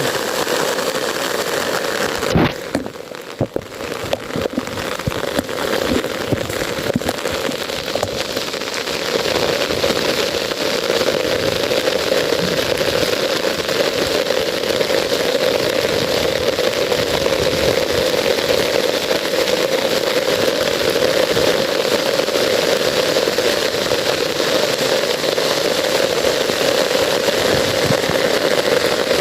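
Steady, even rush of water, rain or flowing floodwater, with a brief drop and a few knocks about three seconds in.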